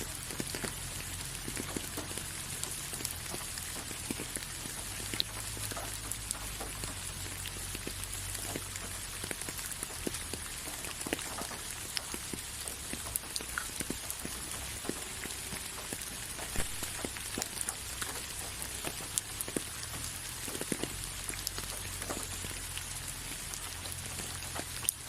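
Steady rain, with many separate drops ticking sharply on a hard surface over an even high hiss.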